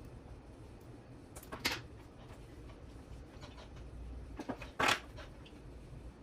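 Brief handling noises from small parts being picked up and set down, two short rustling clatters about a second and a half in and near five seconds in, over a low steady hum.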